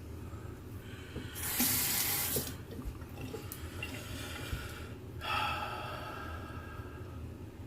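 Bathroom faucet running into the sink in two short spells: a loud splash about a second and a half in, then a second run with a more ringing, filling sound about five seconds in.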